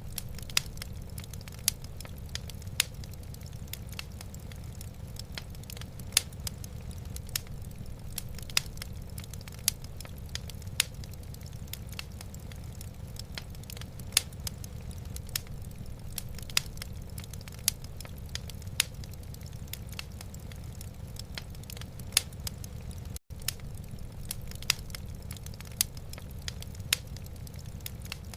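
Wood fire burning in a fireplace: irregular sharp crackles and pops over a steady low rumble, with a momentary gap about 23 seconds in.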